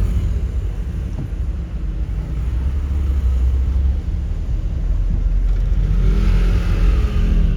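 Car being driven: a steady low rumble of engine and road noise, with a stretch of brighter hiss and a shifting engine tone near the end.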